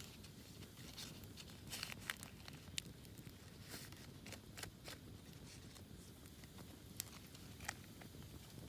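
Campfire crackling: irregular sharp pops and snaps, a handful spread over several seconds, over a faint steady low hum.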